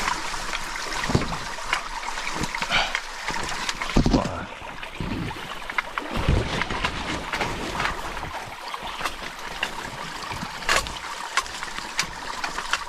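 Shallow stream running, with irregular sloshes and splashes as people wade through the water and work in the pool.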